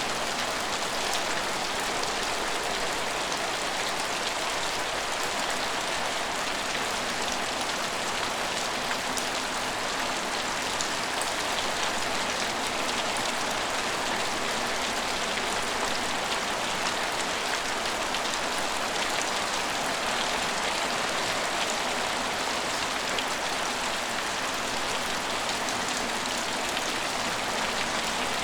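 Steady rain falling on hard surfaces, an even hiss with fine scattered drop ticks.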